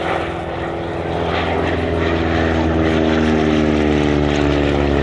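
Propeller-driven vintage aircraft flying past, its piston engine growing louder and then dropping in pitch as it goes by.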